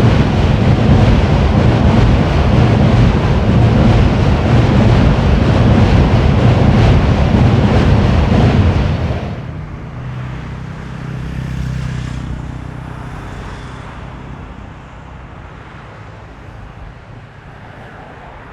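Strong wind gust buffeting the action camera's microphone with a loud rumbling rush, cutting off sharply about nine seconds in; a much fainter rushing swells briefly and fades after it.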